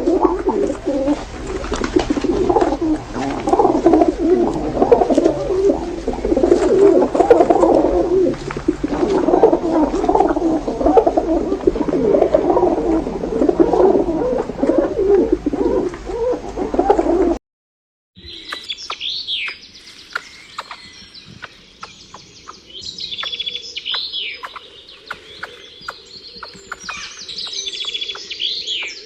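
Many birds cooing at once, low calls overlapping continuously. About seventeen seconds in it cuts off sharply, and after a short gap small birds chirping in high, quick notes take over.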